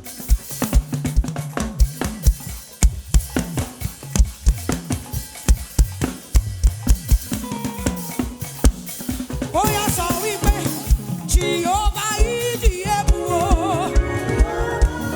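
Live band music driven by a drum kit playing a fast, steady beat on kick and snare with cymbals. About ten seconds in, a melodic line with bending, wavering notes joins over the drums.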